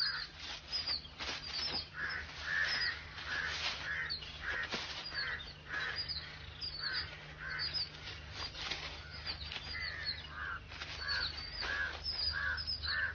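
Birds calling over and over: short harsh calls, about one or two a second, mixed with thin high chirps.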